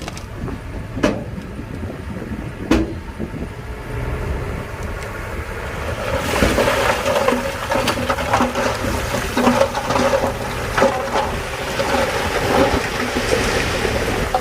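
Shantui bulldozer's diesel engine running under load with a steady low rumble and a couple of sharp knocks. From about six seconds in, a louder, denser grinding clatter joins, typical of stone being pushed and tracks working over rock.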